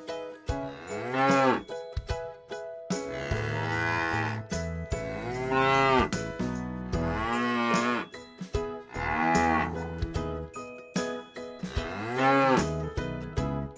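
Cow mooing several times, each moo a long call that rises and falls in pitch, over steady held background tones.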